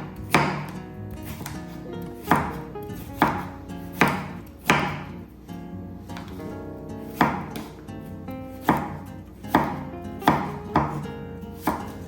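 Knife chopping on a cutting board: about a dozen sharp, unevenly spaced chops, each ringing briefly.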